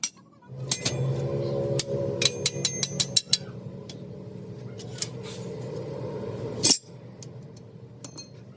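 Sharp metal taps and clinks, quickest for about a second a few seconds in, over a steady machine hum; a single loud knock about two-thirds of the way through, after which the hum is quieter.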